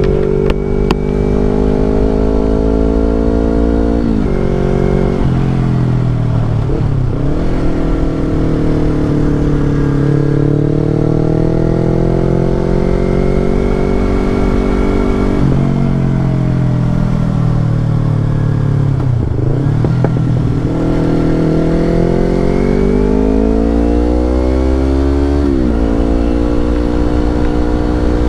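Yamaha R25 parallel-twin engine through a Brave aftermarket exhaust, revving up and down. The pitch climbs and falls over a few seconds at a time, with several sudden drops.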